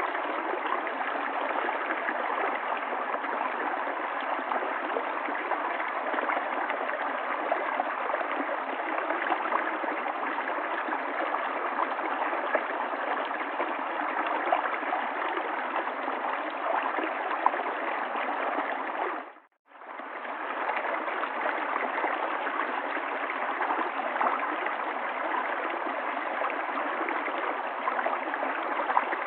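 River water flowing and gurgling steadily. About two-thirds of the way through it fades briefly to silence and comes straight back.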